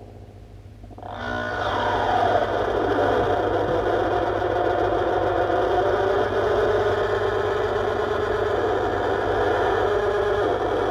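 Harsh noise from a chain of effects pedals (delays, filter, graphic EQ) played through a small Danelectro Honeytone guitar amp. Over a steady low hum, a dense, grinding noise swells in about a second in, with a falling tone as it starts, then holds steady.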